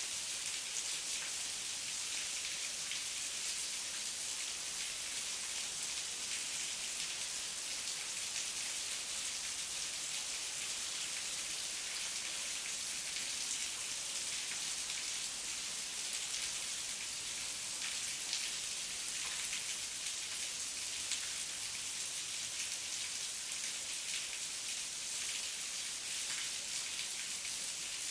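Heavy rain falling steadily, a dense even hiss of drops with fine patters and no lulls.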